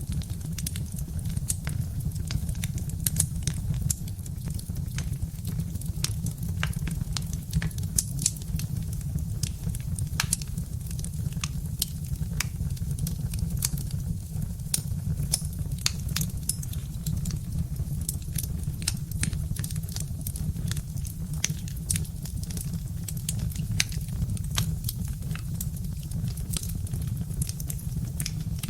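Birch-wood fire burning in a fireplace, crackling with many sharp, irregular pops over a steady low rumble.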